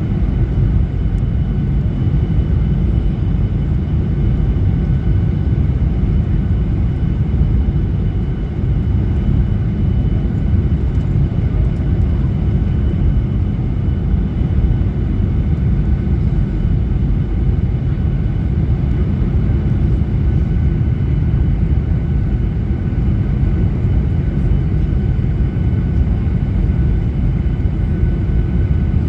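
Steady cabin noise of a Boeing 737-800 descending on approach. It is a deep, even rush of airflow and CFM56-7B engine noise heard from a window seat just ahead of the wing, with a faint steady high whine over it.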